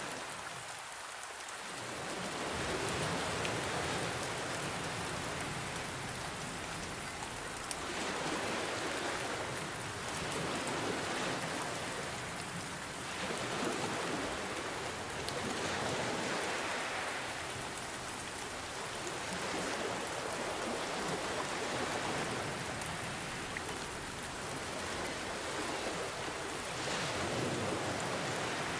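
Steady rain with ocean waves, the wash swelling and easing every few seconds.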